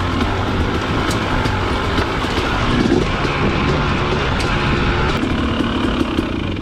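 Dirt bike engine running steadily under way, its pitch wavering slightly, with scattered sharp ticks over it.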